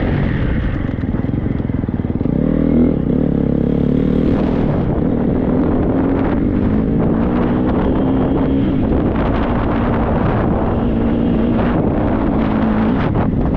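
Triumph 250 four-stroke motocross bike's engine running hard under throttle, its pitch rising about two to three seconds in and then wavering as the rider works it. Wind noise and rattles are mixed in.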